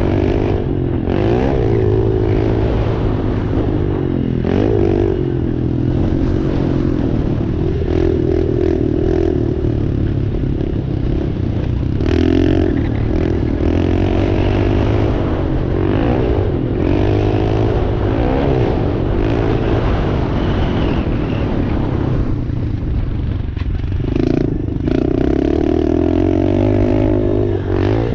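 Dirt bike engine being ridden hard, revving up and down over and over, its pitch rising and falling with throttle and gear changes, with some rattling from the bike.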